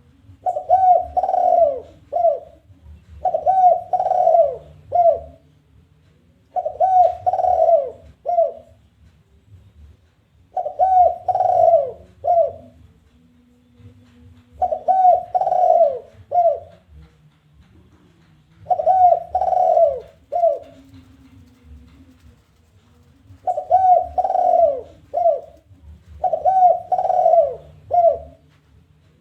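Spotted dove (tekukur) cooing in a challenging call, a phrase of two long coos and a short closing coo repeated about every three to four seconds, eight times.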